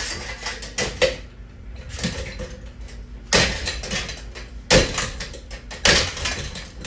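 Metal ceiling-fan parts clanking and knocking as they are struck and handled, in several separate groups of sharp hits with a short metallic ring after some of them.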